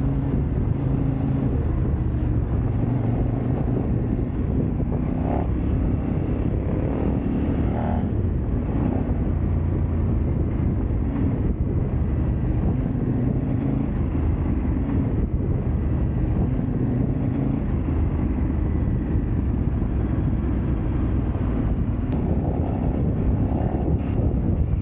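Adventure motorcycle engine running while riding off-road, its note rising and falling with the throttle, with wind on the microphone.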